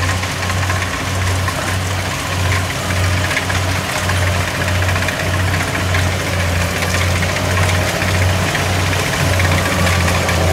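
Kubota DC70 combine harvester's diesel engine running steadily while it works, a loud low hum with an even throb and a faint thin whine above it that slowly rises in pitch.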